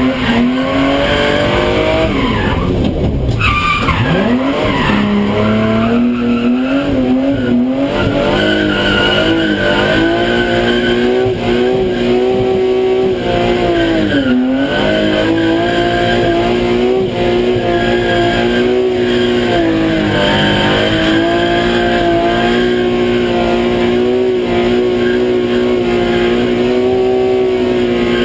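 Rally car engine held at high revs for long stretches, its pitch dropping and recovering briefly a few times.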